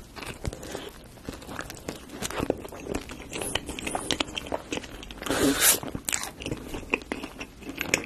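A person biting into and chewing crusty cheese-topped baguette: a steady run of small crunchy clicks from the mouth, with one louder crunchy burst a little past halfway.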